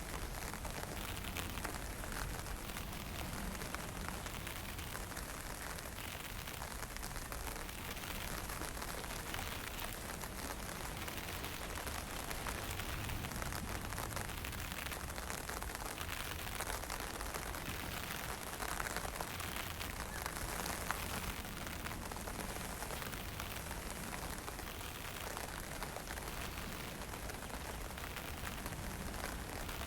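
Steady hiss of fine drizzle and wind, with a low wind rumble on the microphone.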